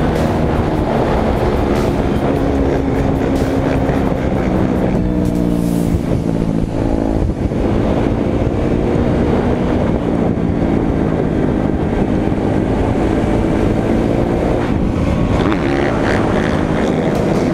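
Engine of a dirt bike or quad, ridden on the street. It runs continuously, its pitch rising and falling with the throttle, over a heavy low rushing noise.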